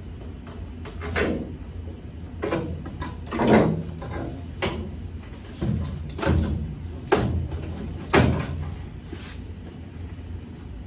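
Irregular knocks and clanks, about eight over ten seconds, of hand work on the bed and tailgate hardware of a pickup truck, over a steady low hum.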